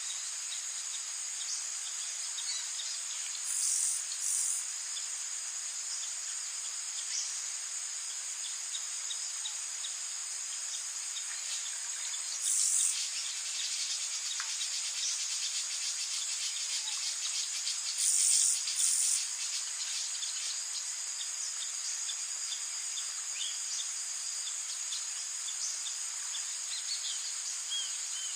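Rainforest night-time ambience: a dense chorus of crickets and other insects keeps up a steady high-pitched trill. Short, louder buzzing calls break in twice about four seconds in, once near the middle and twice more a little later, with faint scattered bird chirps underneath.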